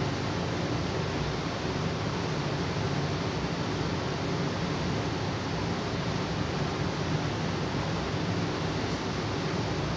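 Steady, even rushing noise with no changes or distinct events.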